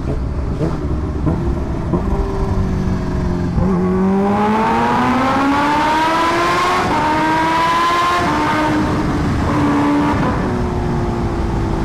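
Kawasaki Ninja H2R's supercharged inline-four engine running steadily, then opened up in a gentle pull about four seconds in, its pitch rising for about four seconds before it eases off and settles back to a steady cruise. The tires are still cold, so the pull is held short of full throttle.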